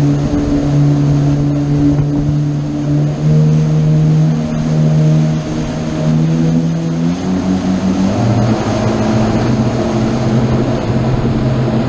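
Motorboat engine running under way: a steady drone over a broad rushing noise. The drone's pitch shifts lower about seven seconds in.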